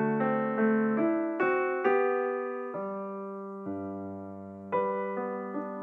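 Slow piano background music: single notes and chords struck about every half second, easing into a longer held chord in the middle before the notes resume.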